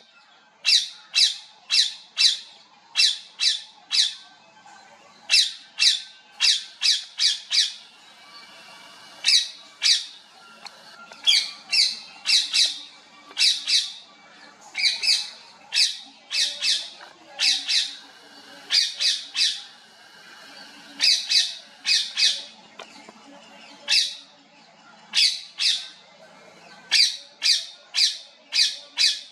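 Parrots calling in short, high-pitched squawks that come in runs of three or four, with short pauses between the runs.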